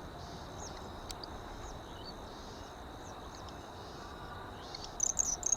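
Insects chirping in a regular rhythm over a steady high tone, with a short burst of sharp, high bird calls near the end.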